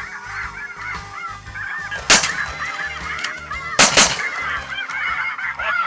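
A large flock of light geese calling steadily, with three shotgun shots: one about two seconds in and two close together near four seconds.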